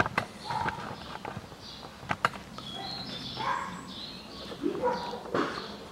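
Small birds chirping in short, repeated, slightly falling calls. A few sharp light clicks come near the start and about two seconds in, from a pin prying at a plastic door-trim plug.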